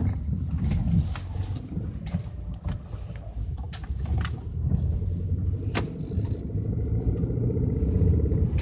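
Hyundai Elantra engine running soon after a cold start, heard from inside the cabin as a steady low rumble, with scattered small clicks and rattles.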